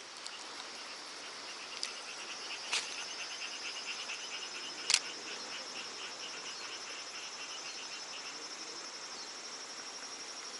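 Insects trilling steadily, with a second, lower insect chirping in quick regular pulses for several seconds. A few sharp clicks cut in, the loudest about five seconds in.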